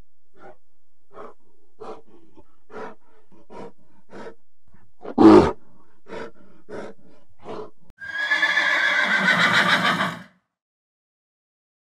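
A brown bear's short rhythmic huffing grunts, about one every three-quarters of a second, with one louder grunt in the middle. Then a zebra's loud braying call, falling in pitch, lasting about two seconds.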